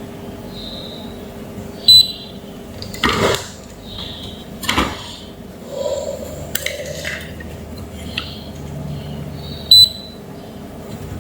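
Small tools and parts clicking and clinking on an electronics repair bench over a steady low hum, with two sharp clicks, about two seconds in and near the end, the loudest.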